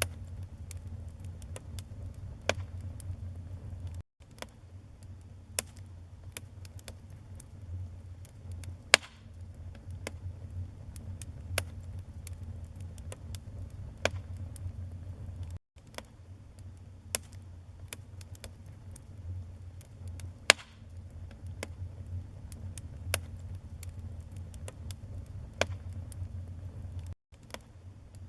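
Wood fire burning in a fireplace: irregular sharp crackles and pops over a steady low rumble, with two louder pops about a third and two-thirds of the way through. The sound cuts out for an instant three times.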